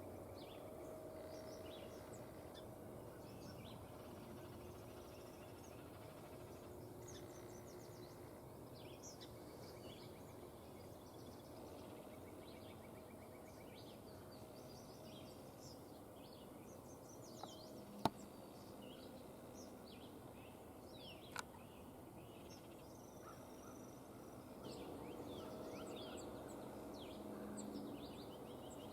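Small songbirds chirping and singing faintly over quiet outdoor ambience. A single sharp click about eighteen seconds in, and a fainter one about three seconds later.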